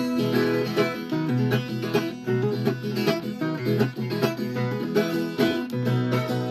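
Viola caipira playing an instrumental passage: quickly plucked, ringing notes over steady low sustained notes.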